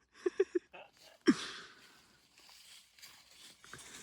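A person's voice making three quick short breathy sounds, then a louder breathy exhale with a falling pitch about a second in.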